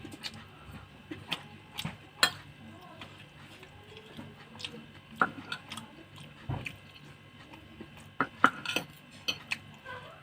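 Eating sounds from a spicy food mukbang: scattered soft clicks and taps of food being handled on a plate and chewed, with a few louder clicks at irregular intervals.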